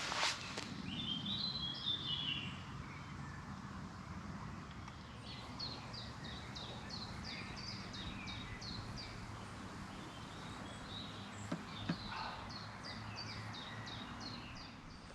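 Songbirds singing in woodland: runs of quick, repeated high notes, each note falling in pitch, over a steady low background hum, with a couple of faint knocks near the end.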